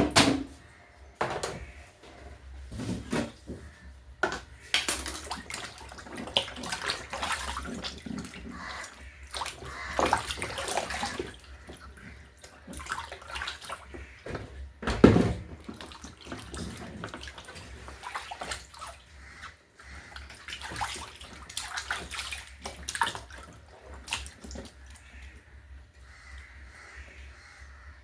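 Water splashing and sloshing in a basin in irregular bursts, with a sharp knock at the start and another loud knock about fifteen seconds in.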